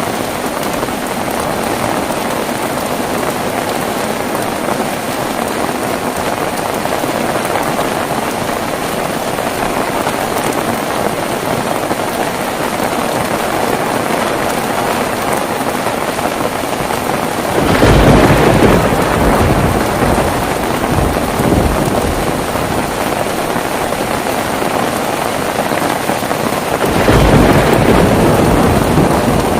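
Steady heavy rain falling, with two claps of thunder: one about two-thirds of the way in and a second near the end, each coming in suddenly and dying away over a few seconds.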